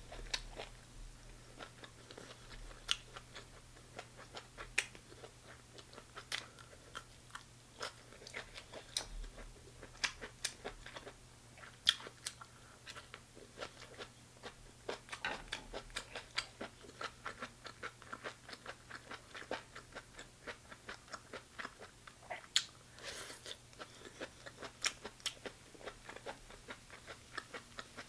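Close-up chewing and biting of chicken gizzards: many small, irregular crunching clicks and mouth sounds, over a faint steady low hum.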